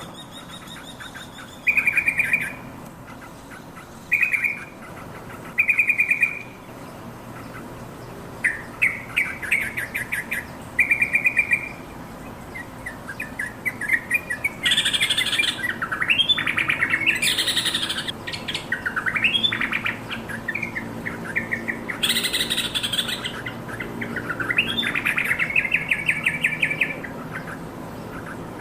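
Yellow-vented bulbul calling: short bubbly chattering phrases a couple of seconds apart, then, from about halfway, a denser run of rising whistled notes mixed with harsh chatters.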